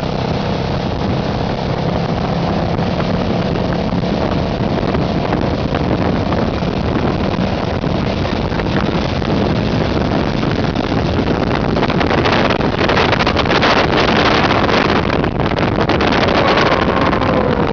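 Motorboat engine running at speed, a steady hum under rushing water and wind buffeting the microphone. The wind noise grows louder about two-thirds of the way through, and a tone falls in pitch near the end.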